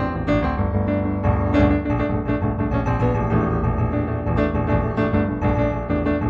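Solo piano music, improvised, a continuous flow of struck notes over sustained low chords.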